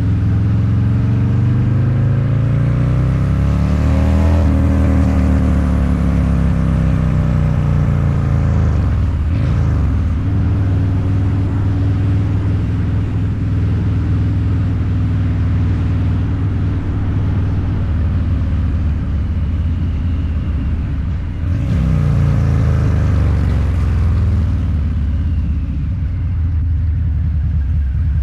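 Harley-Davidson Low Rider's 129ci V-twin, through a Two Brothers Racing exhaust, rising in revs for about four seconds, then dropping off. It settles to a steady run, dips briefly about three quarters of the way through and picks up again.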